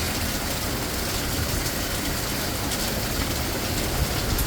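Storm wind and heavy wind-driven rain: a steady rushing noise with a rumbling low end and a few faint drop hits.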